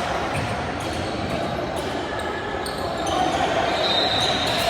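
A basketball bouncing on a gym court amid steady echoing crowd noise, with a short high squeak about four seconds in.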